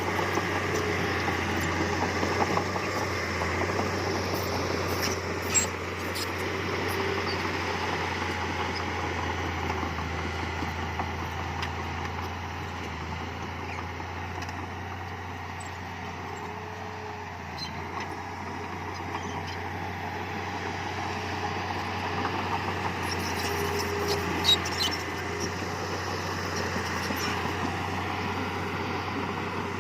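Heavy diesel earthmoving machinery running steadily, with a couple of sharp metallic knocks.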